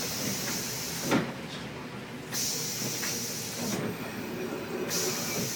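Cabin noise inside a New Flyer D60LFR articulated diesel bus riding in the rain: a steady low rumble under a hiss that comes and goes about every second and a half, with a single sharp knock about a second in.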